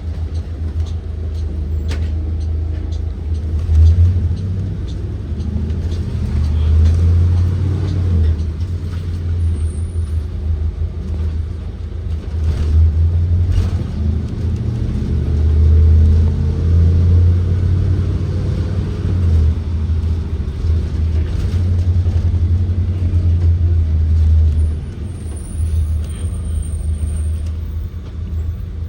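A 2023 Blue Bird Vision school bus's Ford 7.3L gasoline V8 heard from inside the cabin while driving: a steady low rumble that rises and falls in pitch several times as the bus accelerates and shifts. A few short knocks and rattles sound along with it.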